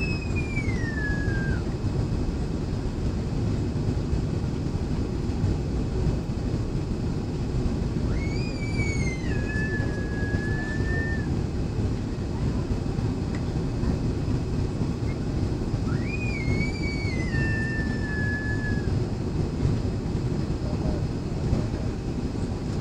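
Steady roar of jet engines and airflow inside an airliner cabin in flight. Three times, about eight seconds apart, a high wailing cry rises and then falls away over this roar.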